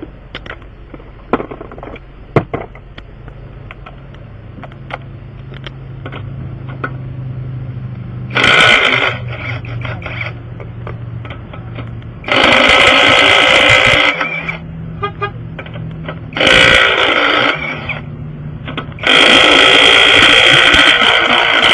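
Impact wrench hammering on a wheel's lug nuts in four bursts of one to three seconds, the last and longest near the end, as it tries to break loose a nut that is on tight. A steady low hum and small clicks of tool handling run between the bursts.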